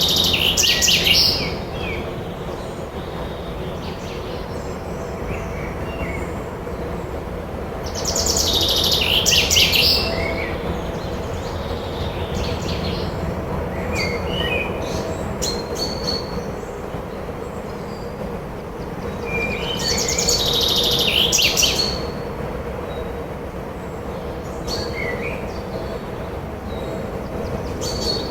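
Forest birds singing: a loud, high, quick song phrase three times, roughly ten seconds apart, with scattered short chirps between. Under it runs a steady low rush of wind.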